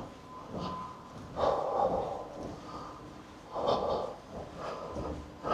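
A man breathing heavily and close to the microphone, a few loud breaths about two seconds apart, short of breath after climbing a flight of steps.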